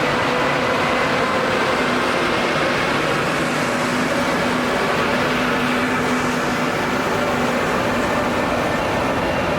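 A train running, a steady rush of wheel and rail noise with faint steady tones above it.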